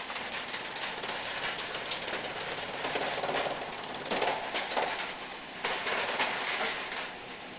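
Wood chipper running, with a rapid crackle of wood being chipped that swells in surges about three, four and six seconds in.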